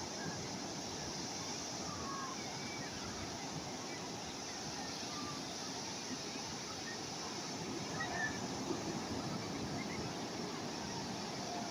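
Steady wash of calm sea waves breaking on the shore, with faint short chirps scattered over it.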